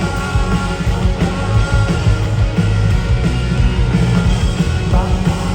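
Live indie rock band playing loud and fast: drums, bass and electric guitars, heard through a phone-style crowd recording in an arena, with no vocal line.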